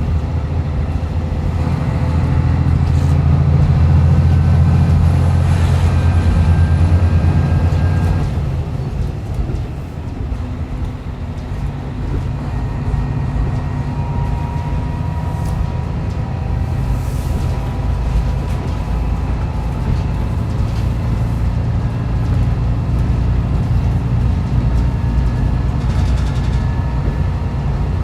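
Diesel railcar heard from inside the car while running: the engine drones under power for the first eight seconds or so, then eases off as the railcar coasts, leaving steady wheel-and-rail rumble with a faint whine.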